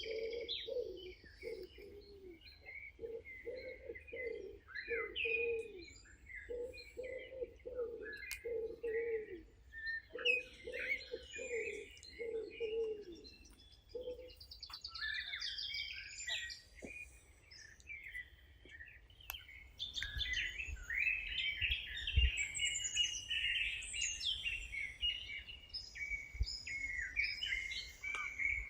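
Several songbirds chirping and twittering in a chorus. A lower call repeats about once a second through the first half. About two-thirds of the way in the chorus grows denser and louder over a low rumble.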